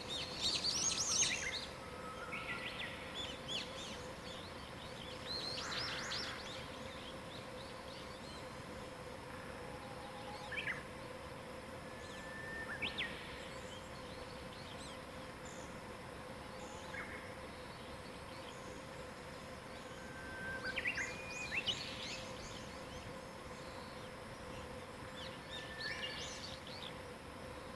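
Wild songbirds singing and chirping on and off, with several short phrases in the first few seconds and again about a third and three quarters of the way through, over a faint steady hum.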